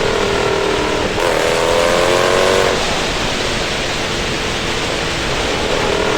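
Jeep SRT HEMI V8 engine and exhaust under load on a wet road. The engine note climbs from about a second in, eases off near the three-second mark and rises again near the end, over a steady rush of wind and tyre spray.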